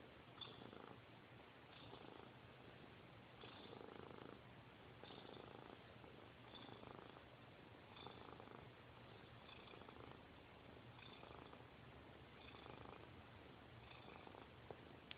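Domestic cat purring softly and continuously, the purr swelling and easing about every second and a half.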